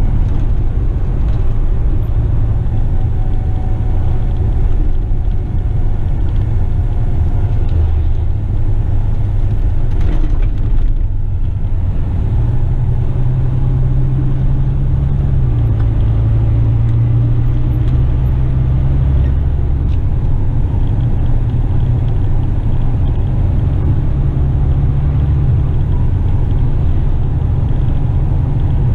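Western Star tipper truck's diesel engine running on the road, a steady low drone whose pitch steps up about twelve seconds in and drops back about three seconds later.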